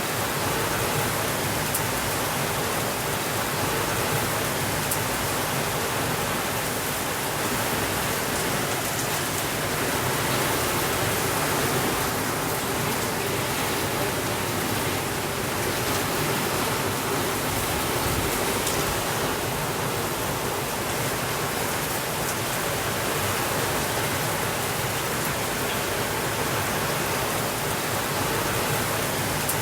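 Steady rainfall: a dense, even hiss of rain without thunder, with fine drop ticks over it and no change in level.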